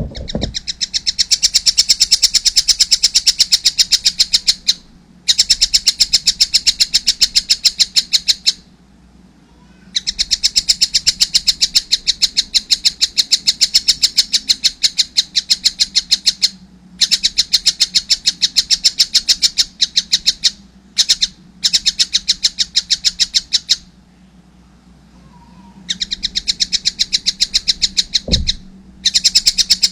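A young collared kingfisher (tengkek buto) calling in long runs of fast, evenly repeated high chirps. The runs break off and start again several times. There is a short low thump near the end.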